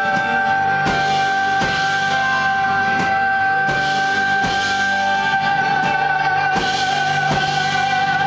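Live band music: one long held note, wavering slightly near the end, over guitar and a steady beat about every three-quarters of a second.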